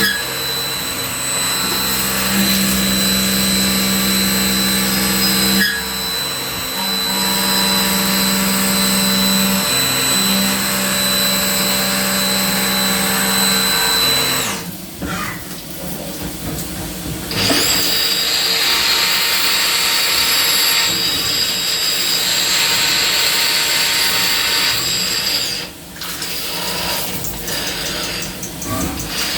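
Biglia 565 YS CNC turning centre milling with a driven live tool: a steady high spindle whine over cutting noise. About halfway through the tool winds down, then spins back up with a rising whine and cuts again for several seconds before stopping near the end.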